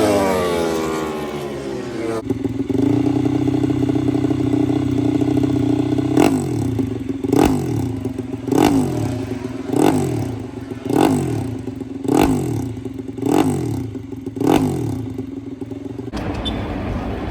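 Racing motorcycle engines at a MotoGP event: one passes with its pitch falling, then an engine holds a steady note. It is then revved sharply eight times, about every 1.2 s, the pitch dropping back after each rev, until the sound changes to a noisier hubbub near the end.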